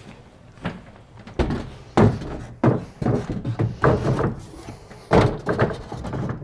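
Wooden sauna panels and bench pieces knocking and thudding as they are pushed and set into place, a quick series of sharp knocks and thuds with some rubbing between them.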